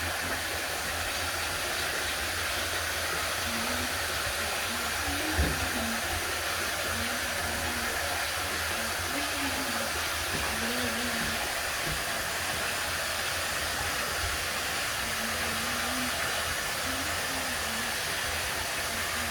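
Tap water running steadily into a bathtub while a dog is being washed, a constant rushing hiss.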